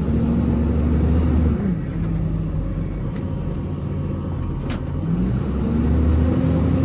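Box truck's engine running under way, heard from inside the cab. The engine note drops off a little under two seconds in, then climbs again as it picks up speed after about five seconds.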